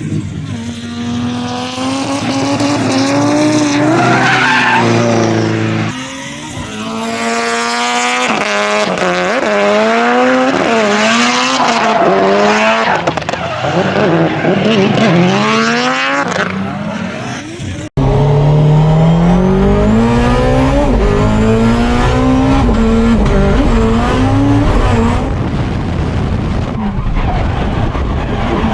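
Honda S2000 drift car on a drift run: the engine revs hard, its pitch climbing and dropping again and again, with tyre noise from the sliding car. The sound breaks off abruptly about 18 s in, then carries on louder.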